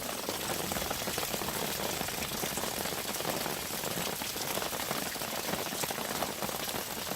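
Steady rain falling, with a dense patter of drops hitting surfaces close by.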